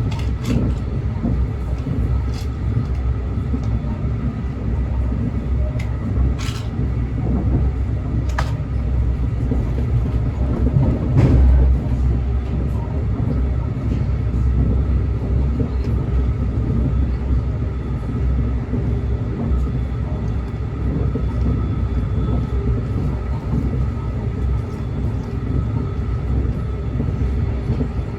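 Train running on the rails: a steady low rumble with a few sharp clanks, loudest about eleven seconds in.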